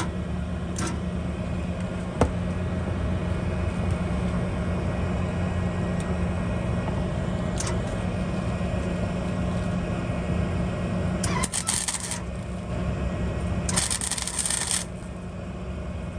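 Steady electrical hum, then short bursts of welding arc crackle, each about a second long, starting about eleven seconds in: stitch welds on an exhaust pipe.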